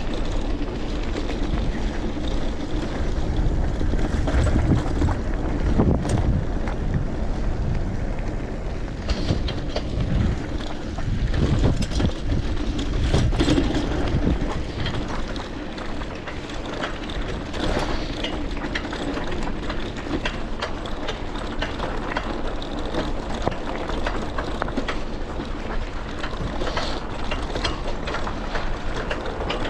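Bicycle in motion, rattling and clicking over a bumpy surface, with wind rushing on the microphone.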